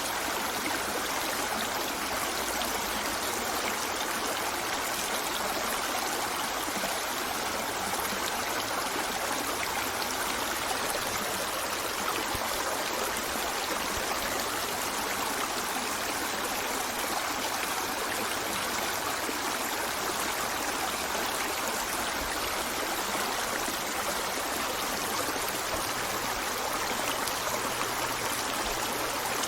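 River water flowing steadily over rocks: an even, continuous rushing and trickling with no change.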